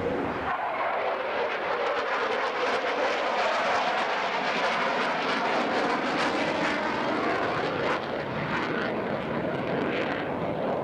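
Military jet aircraft flying past, a steady roar of engine noise that is loudest in the middle and eases off near the end.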